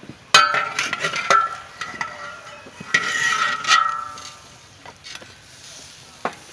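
A spoon stirring in a dish, clinking repeatedly against its side with short ringing clinks. The clinking is busiest over the first four seconds, then thins out to a few faint knocks.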